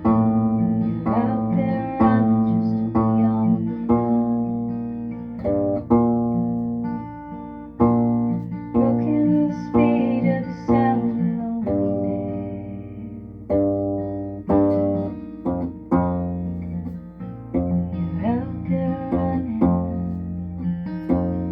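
Instrumental passage of plucked strings: an octave ukulele tuned EADG like a bass guitar, with guitar. Notes are picked one after another and ring over low bass notes.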